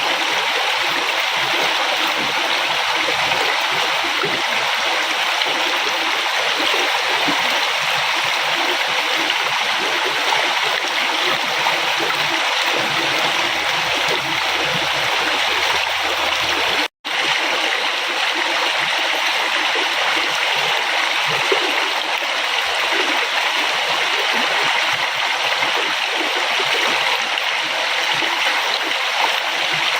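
River water flowing steadily, a continuous rush and gurgle, cut off for a split second about halfway through.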